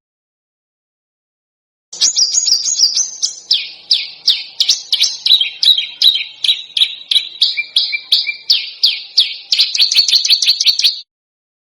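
Recorded songbird song of fast, sharp, rapidly repeated notes, several to the second, shifting between a few phrase types; it starts abruptly after about two seconds of silence and cuts off just before the end.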